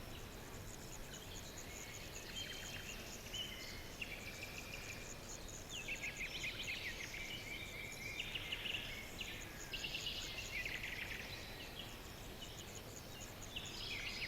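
Songbirds singing in short, repeated trilled and chirping phrases over a steady, rapid insect chorus and low outdoor background noise.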